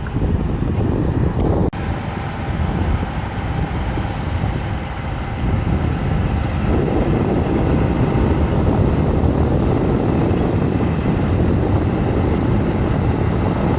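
Wind buffeting the microphone in a steady, loud rumble, with a single sharp click just under two seconds in.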